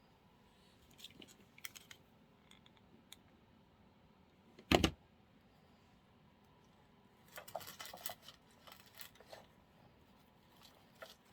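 Handling noises from artificial flowers and craft materials: small clicks and rustles, a single sharp knock about five seconds in, then a stretch of crackly rustling and clicking.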